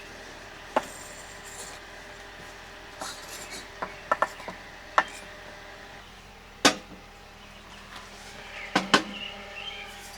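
Scattered knocks and light clinks of dishes and utensils being handled, about eight in all, the sharpest about two-thirds of the way through.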